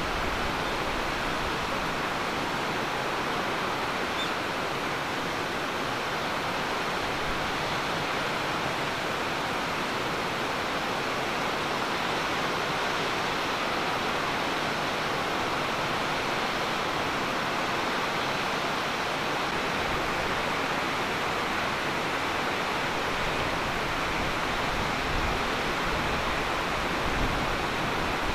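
A waterfall, a steady rushing of falling water with no breaks.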